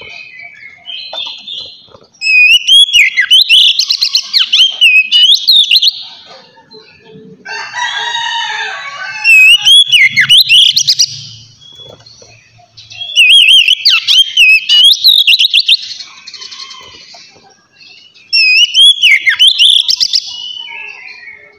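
Oriental magpie-robin (kacer) singing in the loud, open 'ngeplong' style: four bursts of rapid whistled notes sliding up and down, with short pauses between them. A harsher, lower call comes in the middle.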